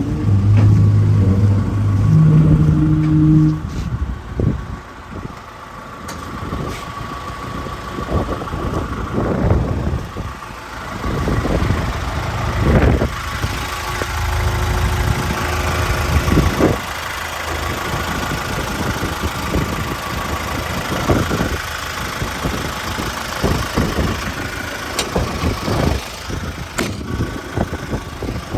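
Volvo EW140D wheeled excavator's diesel engine running, its note rising and falling with load, with a steady high whine over it. The engine is loudest in the first few seconds.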